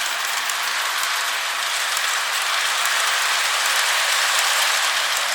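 Lionel O scale model train running on its track: a steady rolling noise of wheels on rail, with faint light clicking.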